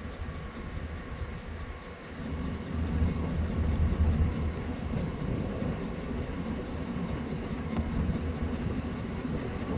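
Low, uneven rumble, louder from about two seconds in, with faint steady tones above it.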